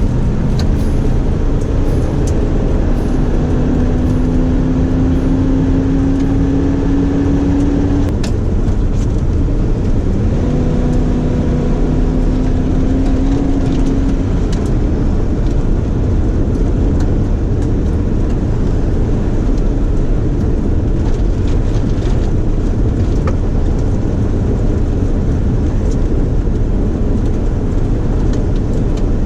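1995 Ford F150 4x4 pickup driving, with steady engine and road noise. The engine's pitch climbs slowly, drops back about eight seconds in, then climbs again.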